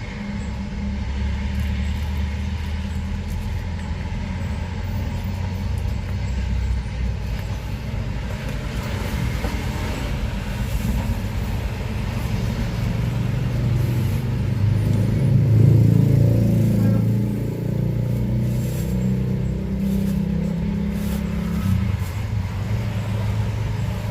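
Road traffic running past: the steady low hum of motor vehicle engines, with one engine growing louder and then fading about two thirds of the way through as it passes close.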